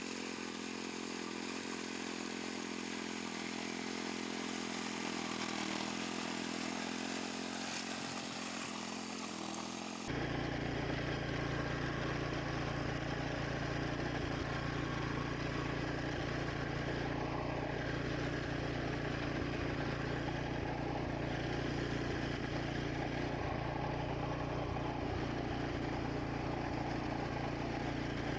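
Wing mower's small engine running steadily as it cuts grass. About ten seconds in the sound changes abruptly to a louder, deeper running.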